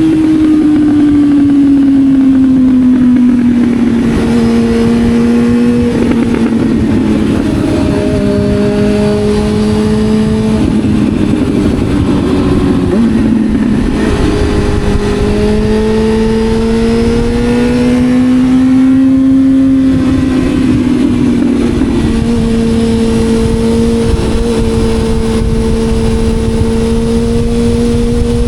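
Motorcycle engine running under way, its pitch sliding down early on, then rising and falling several times with throttle and gear changes, over a steady low rush of wind.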